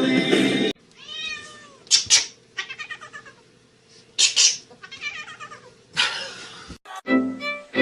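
Domestic cat meowing and yowling in a series of drawn-out calls, broken by short noisy bursts. It is preceded and followed by background music.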